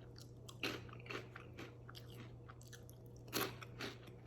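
A person chewing a crunchy Cheetos-style snack (Inferno Candy Co's Hell Crunch): faint, irregular crunches, with a louder crunch about three and a half seconds in.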